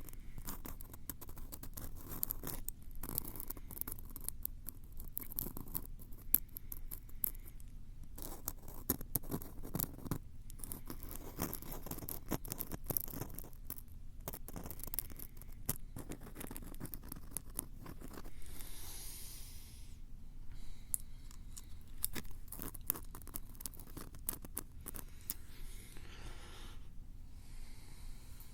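Close-miked ASMR scratching, scraping and tapping on a Tascam recorder's microphones: a dense run of quick clicks and rasps, with a short brushing hiss about nineteen seconds in.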